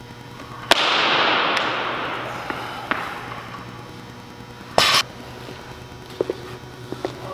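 A loaded barbell dropped onto the gym floor: a sharp bang followed by about two seconds of rattling and ringing, then a second, shorter clatter a few seconds later.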